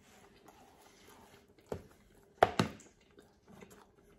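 Quiet chewing of a mouthful of pizza topped with fries, with a few short sharp clicks, the loudest two close together about two and a half seconds in.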